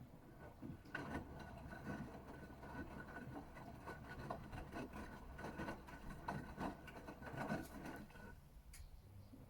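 Gorenje UseLogic 65165 washing machine in its wash phase: the drum starts turning about a second in, with a steady motor whine and the soft irregular slosh and thud of wet laundry tumbling, then stops shortly before the end.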